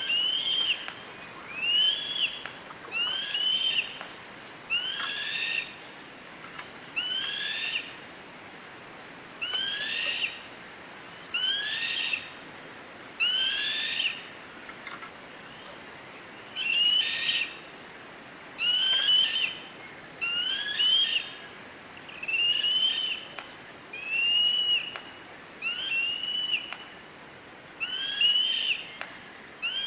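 A bird calling over and over, about one short call a second, each a quick rising-then-falling whistled note with a fainter lower note, with a brief pause now and then.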